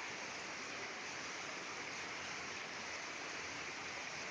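Heavy rain pouring steadily onto a paved yard, an even hiss with no break.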